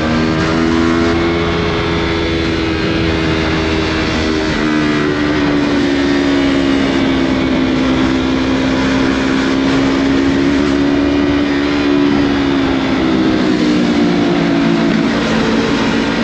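Yamaha MT-03 motorcycle with a Scorpion full-system exhaust running under way at fairly steady revs, its engine note drifting slowly down and back up over several seconds.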